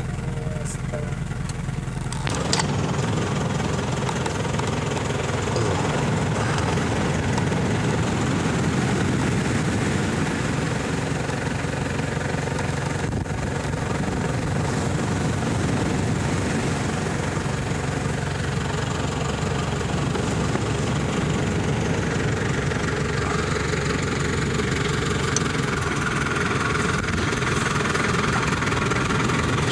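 A motor engine running steadily, starting about two seconds in and continuing without a break.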